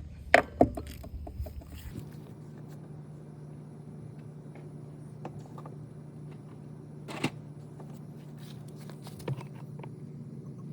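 Scattered clicks and light knocks of hands handling small parts and tools, the sharpest about seven seconds in, over a steady low hum.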